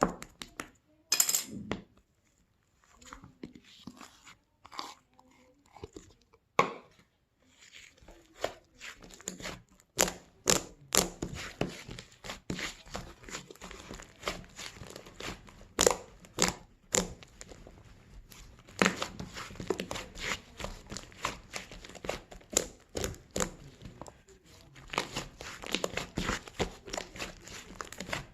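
Fluffy slime being squished and poked by hand, giving irregular sticky pops and crackles. The pops are few and far apart at first, then come thick and fast from about a third of the way in.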